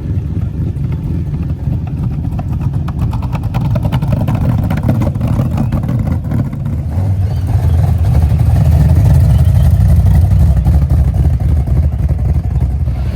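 Muscle car V8 engine running, its sound deep and steady, getting louder about halfway through.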